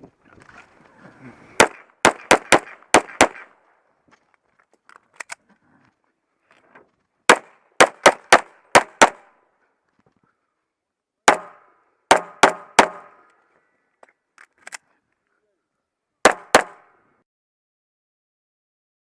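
Pistol shots fired in fast strings with pauses between them: six quick shots, then six more, then five, then a final pair near the end.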